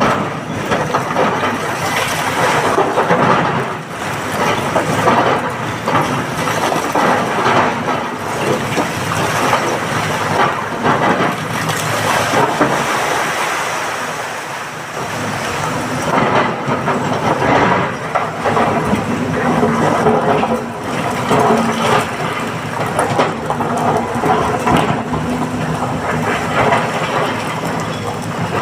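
Excavator working rock: a diesel engine running under load beneath continuous irregular clattering and scraping of stone and metal, with a steadier engine note coming through in the second half.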